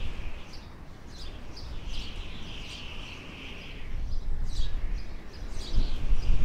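Outdoor ambience of small birds chirping repeatedly over a steady high-pitched hiss. A low rumble grows louder near the end.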